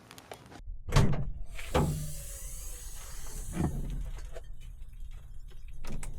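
Several sharp thuds and knocks: one about a second in, another near two seconds and a third near four seconds, with a brief hiss between the first two.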